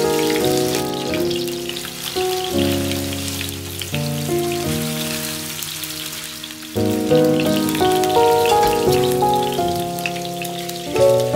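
Salmon fillets sizzling and crackling in hot oil in a frying pan, under background music with held notes that is louder than the frying.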